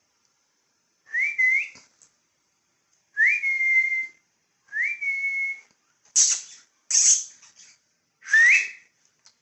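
A person whistling to call a pet budgie: four clear whistles, some rising quickly and some rising then holding a steady note for most of a second. Two short hissing sounds come between the third and fourth whistles.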